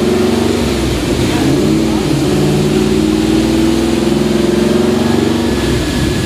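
Pontiac GTO's V8 running at low revs on a chassis dynamometer before a power run. It is a steady, deep exhaust note that dips and rises slightly in pitch a few times.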